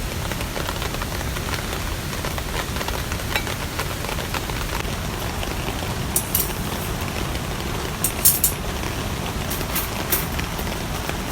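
Steady rain, an even hiss, with a few sharp cracks and drips standing out in the second half.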